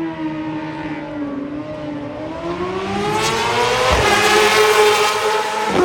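Race motorcycle at full throttle approaching and passing close by, its engine note climbing in pitch as it nears and loudest about four to five seconds in. Another brief, sharp surge of engine noise comes near the end.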